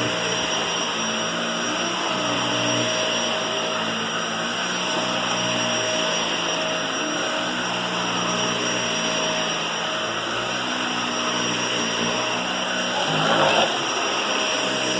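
Vacuum cleaner running steadily with a constant whine, and a brief louder noise about thirteen seconds in.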